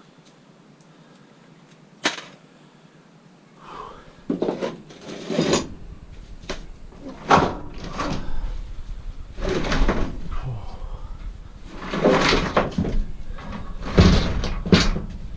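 Scrap metal being handled and worked on: one sharp knock, then a run of irregular clanks and bangs with a low rumble beneath them.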